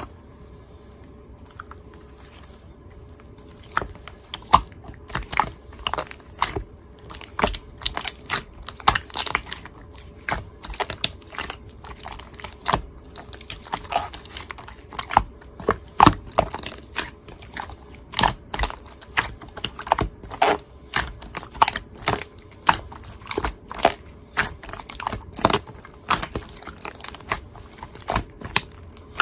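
Slime being squished and poked by hand, giving irregular sharp clicks and pops about one or two a second, starting a few seconds in.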